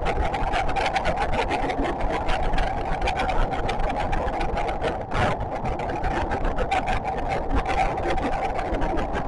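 JR West 521 series electric train running along the line, heard from inside the car: a steady drone of wheels and motors with a fast, fine rattle throughout.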